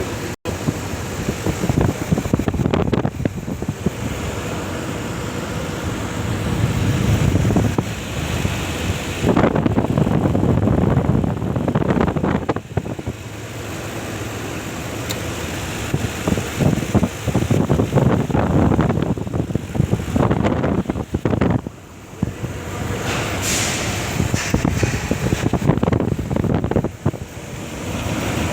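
Lexus 3UR-FE 5.7-litre V8 engine running, its sound swelling and dropping back several times.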